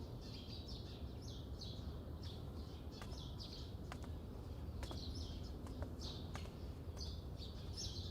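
Small birds chirping repeatedly over a steady low background hum, with a few faint clicks.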